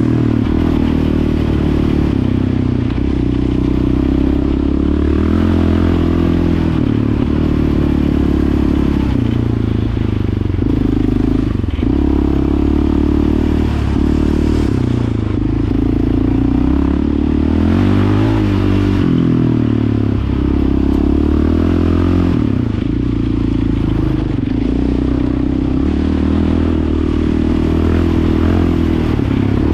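Yamaha Raptor 700 ATV's single-cylinder engine running through a Yoshimura exhaust while being ridden. The engine speed rises and falls repeatedly, with several brief dips as the throttle is eased off.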